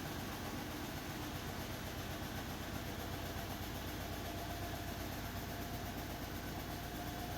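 Beko 10 kg washing machine running mid-cycle, a steady motor and drum hum, with a faint high whine joining about halfway through.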